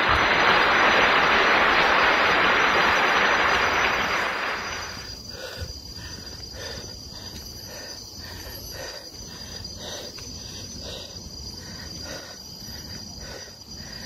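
Forest insects droning in a steady high tone throughout, under a loud rushing hiss that starts just before and fades out about five seconds in. After that, footsteps on a paved path can be heard at a walking pace.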